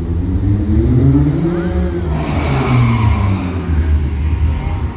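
Stunt car's engine revving, its pitch rising over the first second and falling again around two to three seconds in, with a hiss in the middle and a steady low rumble underneath.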